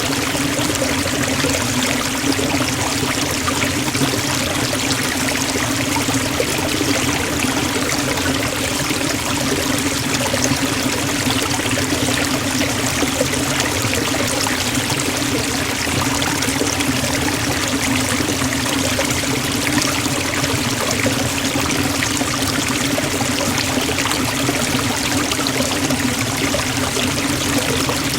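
Forest waterfall: water pouring and splashing in a steady, unbroken rush, with a low hum-like band beneath the hiss.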